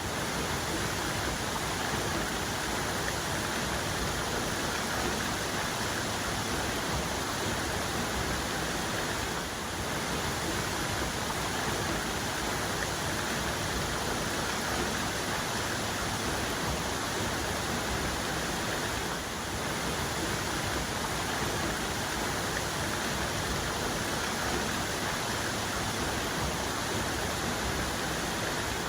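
Waterfall cascade: a steady, dense rush of falling and splashing water.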